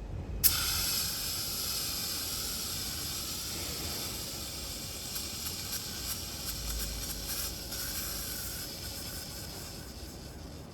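Joker Fireworks JF SP02 gender-reveal spray-paint aerosol discharging: a sharp pop about half a second in as it is triggered, then a steady hiss of spray that slowly weakens near the end.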